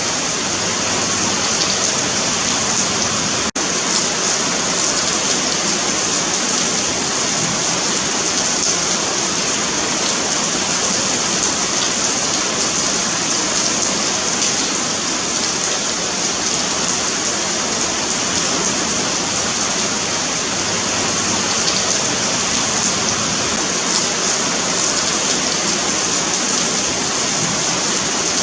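Steady rain falling on a paved sidewalk: a dense, even patter with a bright hiss, broken by a split-second dropout about three and a half seconds in.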